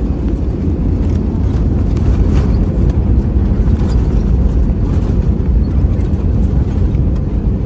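Steady low rumble of a passenger jet heard from inside the cabin, with faint rattles scattered through it.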